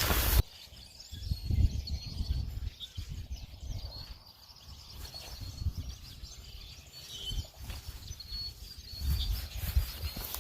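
Small birds chirping, short high calls scattered through, over intermittent low rumbles. A louder noise cuts off about half a second in.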